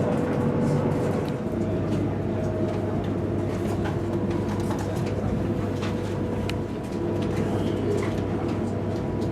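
Steady running noise inside a high-speed EMU train carriage: an even rumble with a faint constant hum underneath.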